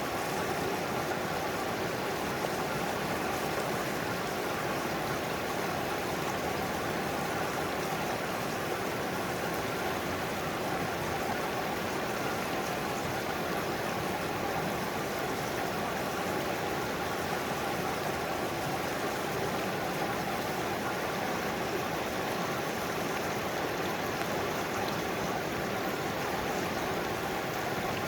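Mountain stream heard up close: water rushing and burbling over rocks in a steady, unbroken flow.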